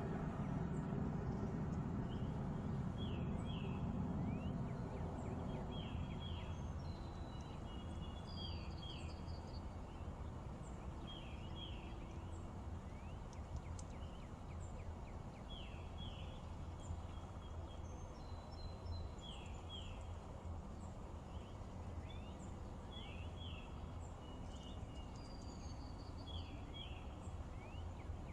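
Birds calling over and over in short high downward-sliding chirps, in twos and threes every couple of seconds. Under them a low rumble dies away over the first several seconds, leaving a steady low hum.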